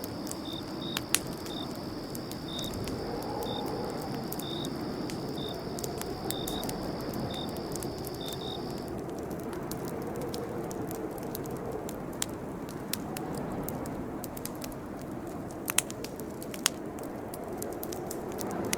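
Campfire crackling: scattered sharp pops, a few louder ones near the end, over a steady low rush of burning wood. Crickets chirp in a steady high trill until about halfway, then stop.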